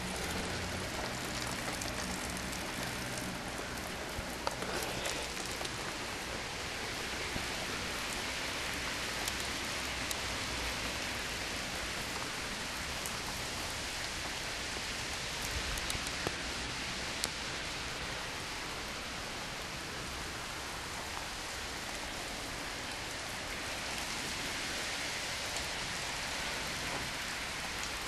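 Steady rain falling, with a few sharper drops ticking close by.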